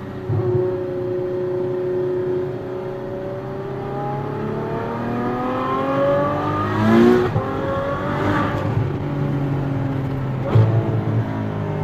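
Ferrari F12 Berlinetta's V12 through a Capristo exhaust, running steadily, then revving up slowly to a peak about seven seconds in, a second rise just after, and a short sharp blip near the end.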